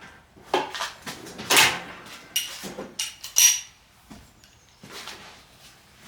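Steel sockets and hand tools clinking and clattering in a string of sharp knocks, with one ringing metallic clink about three and a half seconds in.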